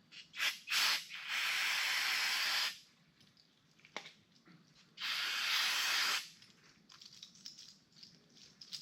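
Aerosol brake cleaner hissing from the can in bursts: two short squirts, then a long spray of about a second and a half, and another of about a second a little past halfway. It is flushing old black grease out of a front wheel bearing.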